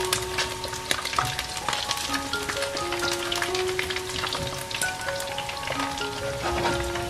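Coated chicken pieces shallow-frying in hot oil in a pan, a steady dense crackling sizzle, with a simple background melody of single held notes.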